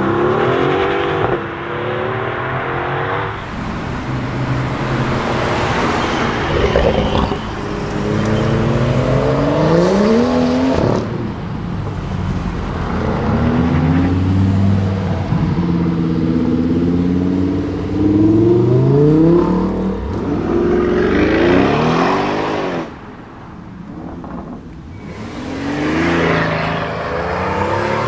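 Several performance cars accelerate hard away one after another, among them a Mercedes-AMG GT and a BMW M6 convertible. Each engine climbs in pitch, drops briefly at a gear change, then climbs again.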